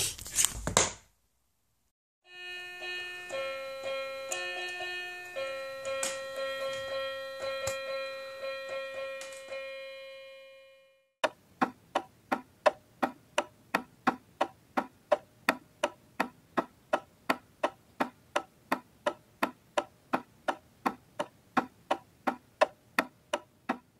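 A short melody of held keyboard-like notes that fades out. Then, about halfway through, a clock begins ticking steadily, about two ticks a second.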